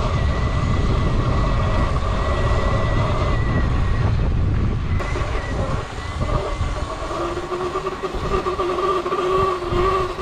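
Electric dirt bike motor whine over heavy wind rumble on the microphone while riding; steady high whine tones, with a lower whine tone joining about seven seconds in.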